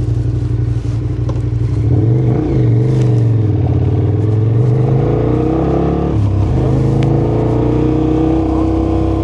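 KTM motorcycle engine pulling under acceleration: its note climbs steadily, drops sharply about six seconds in as it shifts up a gear, then climbs again.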